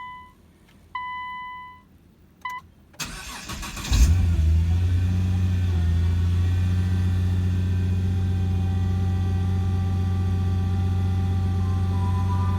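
Two short electronic chimes, then the starter of a Nissan GT-R R35's twin-turbo 3.8-litre V6 cranks for about a second. The engine catches with a loud flare of revs about four seconds in and settles into a steady idle.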